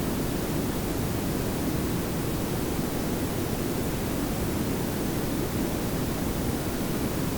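Layered pink and brown noise: a steady, even hiss over a low rumble, weighted toward the low end, unchanging throughout.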